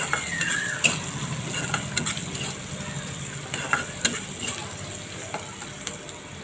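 Onions and ginger-garlic paste frying in hot oil in an iron kadai, sizzling steadily while a spatula stirs them, with a few sharp clicks and scrapes of the spatula against the pan.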